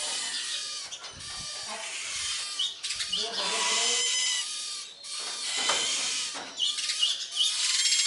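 Small birds chirping and calling over and over in short, high notes and trills, with lower animal calls in the background.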